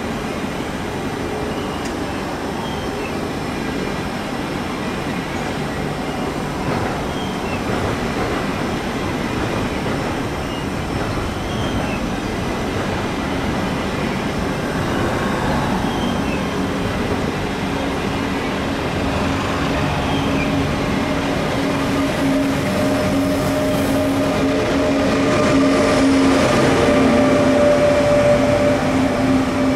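ÖBB Railjet passenger train rolling past: a steady rumble of carriages on the rails. It grows louder over the last ten seconds as the Taurus electric locomotive at the tail comes by with a steady electric hum.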